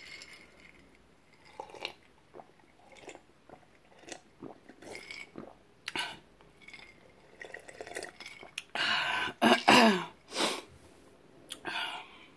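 Close-miked chewing and wet mouth clicks of a person eating a big burrito, with sips from a glass of soda. About nine seconds in comes a louder, noisier stretch that ends in a pitched sound falling in tone.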